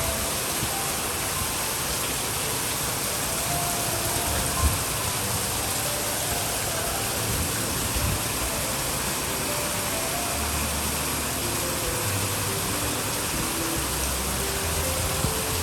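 Heavy tropical monsoon downpour: a dense, steady hiss of rain pouring down, with a single sharp knock about four and a half seconds in.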